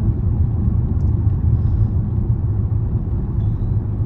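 Steady low road and engine rumble inside a moving Range Rover's cabin.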